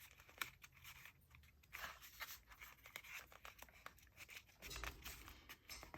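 Faint, scattered rustling and light clicks of paper and card as tags are handled and slid into paper pockets.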